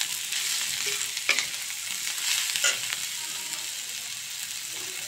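Spiny gourd (kakoda) and onions frying in oil in a kadhai, sizzling steadily while a metal spatula stirs them, with a few sharp scrapes of the spatula against the pan.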